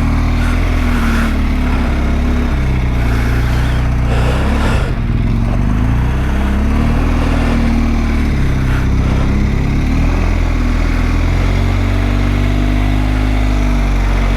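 Motorcycle engine running on the road, its pitch rising and falling several times as the revs change, over steady wind rush.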